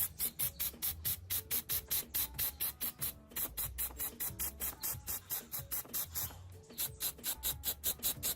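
Rapid rhythmic rasping strokes, about five a second with a brief pause about three seconds in, as in hand sanding or brushing a part, over background music.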